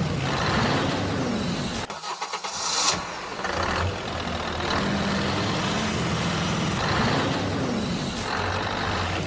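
Tractor-like engine running, rising and falling in pitch twice as if revving. About two seconds in there is a brief break filled with a short hiss.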